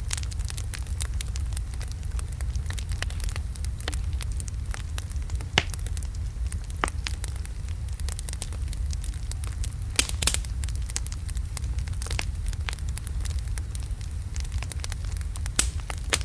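Wood fire of large logs burning in a fireplace: steady low rumble of the flames with frequent small crackles and a few louder pops.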